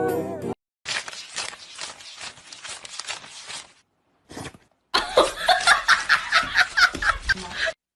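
A string of short clips cut together. Near the end, someone laughs hard in quick repeated bursts for about three seconds. Before that there is a patchy stretch of quieter, broken noise.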